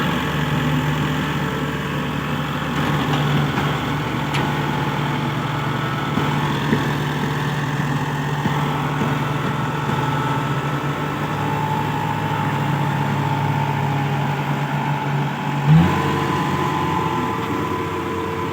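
Kubota 4×4 tractor's diesel engine running with a steady note. Near the end it briefly surges with a short rise in pitch, then runs on with a changed, higher note.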